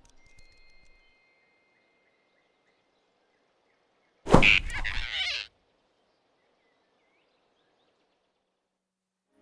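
A sudden loud swoosh ending in a thunk, about four seconds in and lasting about a second, as a cartoon sound effect. Faint high chirps before it; otherwise quiet.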